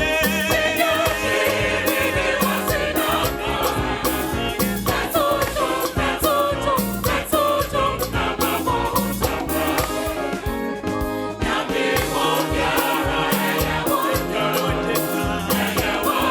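A gospel choir singing with a band over a steady, driving beat.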